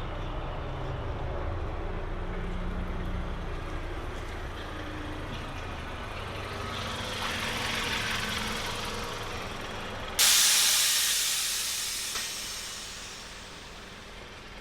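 A car's road noise, a steady low rumble. About ten seconds in, a sudden loud hiss starts and fades away over the next few seconds.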